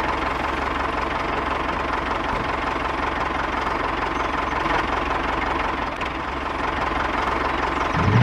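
Small engine of a DIY mini tractor or bulldozer running steadily, with a rapid, even knocking beat.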